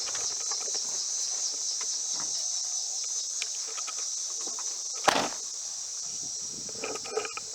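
Steady high-pitched chorus of crickets or similar insects. A single sharp thump comes about five seconds in.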